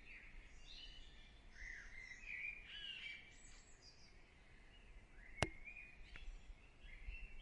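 Faint birds chirping and twittering, with one sharp click about five seconds in.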